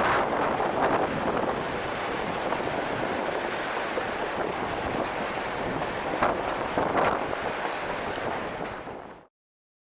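Wind buffeting the microphone over a steady rushing noise, with a couple of louder gusts near the end before it cuts off suddenly.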